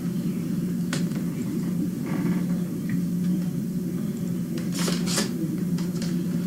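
Steady low mechanical hum, with a few short paper rustles and crackles as greeting cards and envelopes are handled, the loudest a pair of quick rustles about five seconds in.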